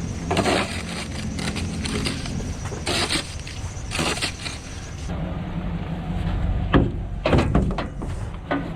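A pickup truck engine running steadily, with a scattering of knocks, rattles and scrapes that grow more frequent in the second half.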